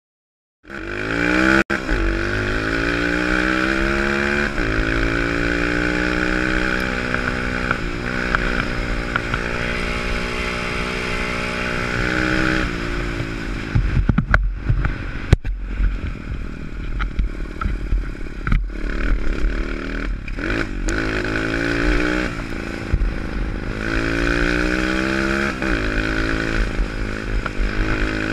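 A pit bike's small single-cylinder engine under riding, starting suddenly just under a second in and revving up in repeated rising sweeps as it shifts through the gears. In the middle the throttle is chopped and blipped unevenly, with a few sharp clacks, before it pulls up through the gears again.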